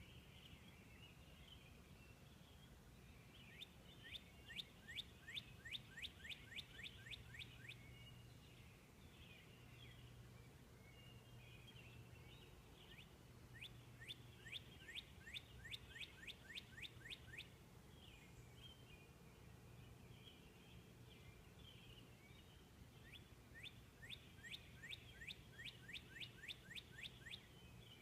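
Northern cardinal singing, faint: three bouts of rapid, steeply falling whistled notes at about four a second, each bout lasting about four seconds. Faint chirping fills the gaps between bouts.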